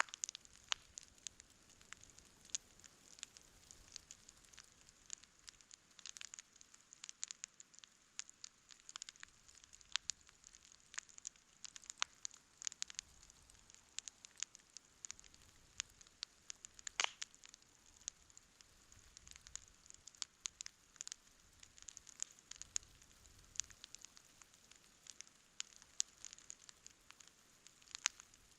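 Wood campfire burning with a steady run of sharp crackles and pops over a faint hiss, one louder pop about two-thirds of the way through.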